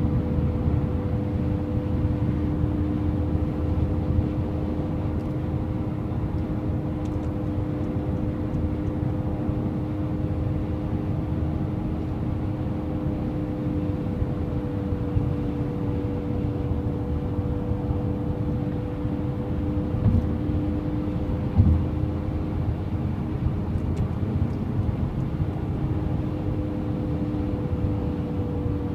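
Acura TSX driving with low road rumble and a steady two-note whine, an extraneous noise the owner attributes to the drive axle; the whine dips slightly in pitch near the end, and there is a brief thump about 21 seconds in.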